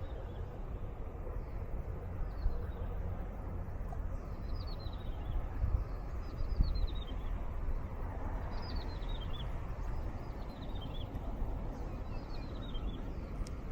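A small bird singing a short falling trill of high notes, repeated every second or two, over a steady low rumble of breeze on the microphone.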